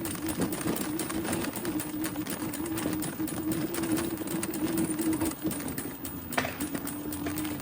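Bicycle being ridden, giving off a fast, continuous mechanical ticking over a steady hum, with one sharper click near the end. It is an annoying noise from the bike that the rider puts down to upkeep and later fixed.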